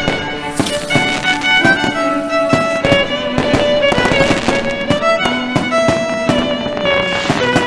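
Music with a violin-like melody of held notes, over the bangs and crackles of fireworks going off.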